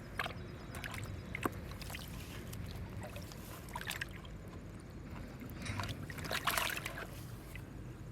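Water sloshing and splashing, with several short sharp splashes or knocks, the loudest cluster about six and a half seconds in.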